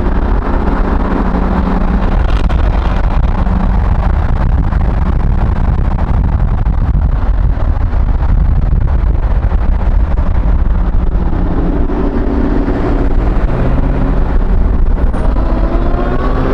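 Car engines running loud with a heavy rumble, and an engine revving up near the end.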